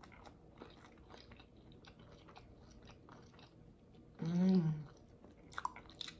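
Close-miked chewing of naan with shrimp masala: soft, wet mouth clicks and smacks throughout. About four seconds in comes a short hummed "mmm" of enjoyment, the loudest sound, and a few sharper smacks follow near the end.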